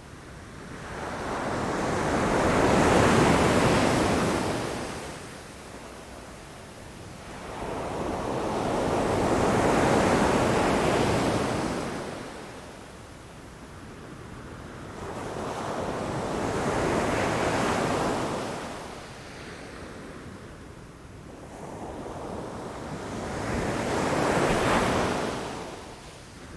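Ocean waves breaking against rocks, four waves that each swell up, crash and wash back, about one every seven seconds.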